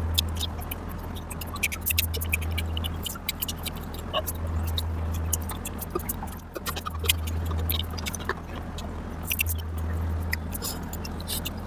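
Close-miked eating sounds: chewing with many quick, sharp mouth clicks. A low rumble underneath swells and eases every couple of seconds.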